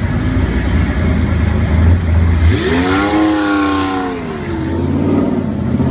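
A car engine rumbling at low revs, then about two and a half seconds in it revs up with a rising pitch, holds for a second or so and drops back to a low rumble.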